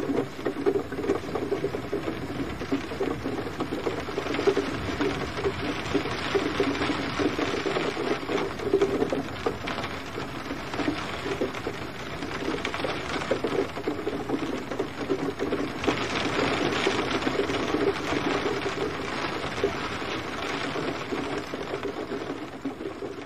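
Steady rain, a dense patter of many drops on a surface, beginning to fade out near the end.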